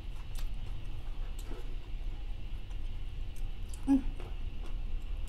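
A person chewing a mouthful of burger with closed lips, with faint mouth clicks, and a short hummed "mm" of enjoyment about four seconds in. A low steady hum runs underneath.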